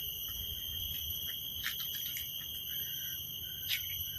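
Steady high-pitched insect chorus, several unbroken tones held throughout, over a low rumble, with a few faint clicks.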